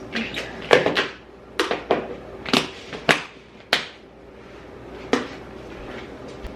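Kitchen clatter: about ten irregular, sharp knocks of utensils, containers or dishes set down and handled on a countertop, over a faint steady hum.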